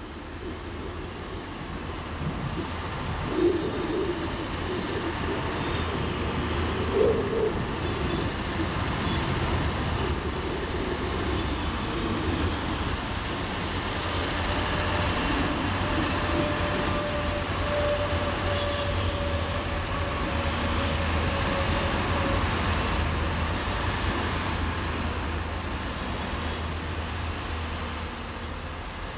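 Diesel-hauled passenger train rumbling as it approaches, a steady low engine hum and rail noise growing gradually louder, with two short sharp knocks about three and seven seconds in.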